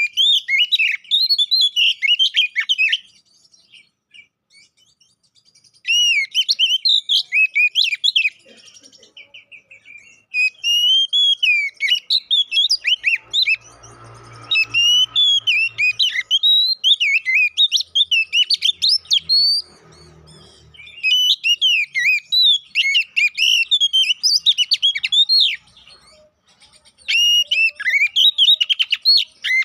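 Oriental magpie-robin (kacer) singing loud, rapid, varied whistled phrases in bursts of a few seconds with short pauses between them.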